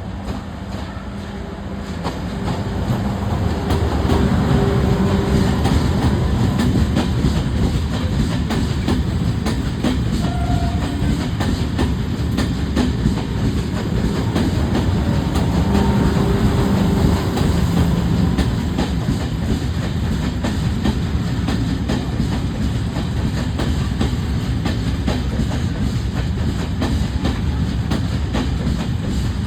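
A locomotive-hauled train running on the tracks, its wheels clattering over the rails in a steady rumble. It grows louder over the first few seconds and then holds steady.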